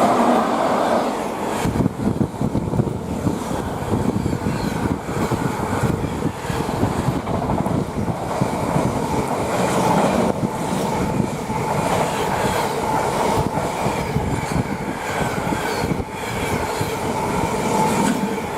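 Freightliner container train hauled by a Class 90 electric locomotive passing at speed: a loud, steady rush of wagon wheels running over the rails, with a dense rattle of clicks throughout.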